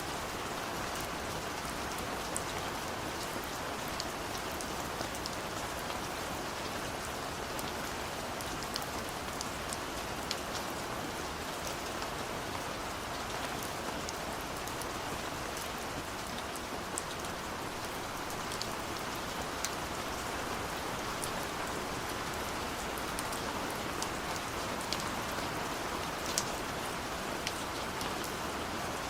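Steady rain falling, a dense even hiss with many separate drops ticking sharply on a surface.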